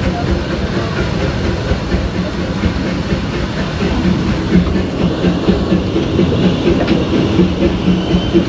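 Disneyland Railroad train rolling along the track, heard from an open-sided passenger car: a steady low rumble with a quick, repeated clatter.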